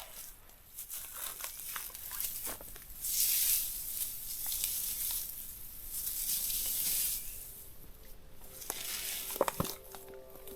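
Rustling and crinkling handling noises with scattered clicks, swelling twice in long hissy passes. Music with a held note comes in near the end.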